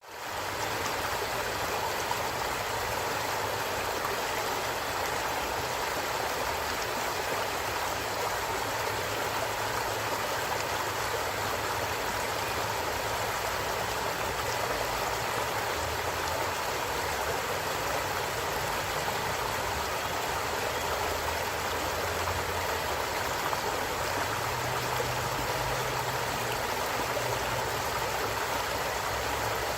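A stream flowing steadily over stones, an even rushing of water that fades in at the very start and then holds a constant level.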